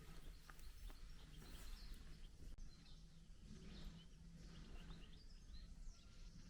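Quiet forest ambience: a few faint bird chirps over low, steady background noise.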